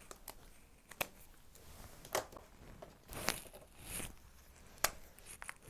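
Pen writing: a few sharp taps and short scratchy strokes, the sound of a formula being written out.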